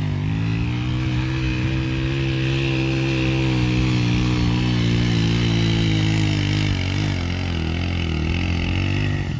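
A motorcycle engine running steadily at an even speed, its pitch rising slightly at first and then holding. It cuts off near the end.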